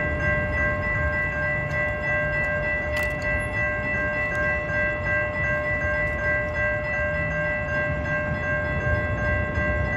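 Tri-Rail commuter train at a grade crossing: a low, steady rumble with a steady chord of several high tones held over it throughout.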